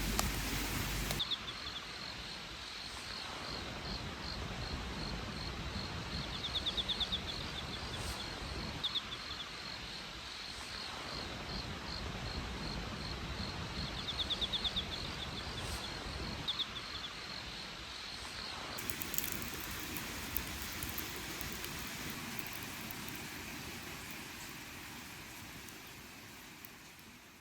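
Crickets chirping steadily, with two bursts of faster trilling, over a steady hiss of outdoor noise. About two-thirds of the way in the chirping stops, leaving only the rushing hiss, which fades out at the end.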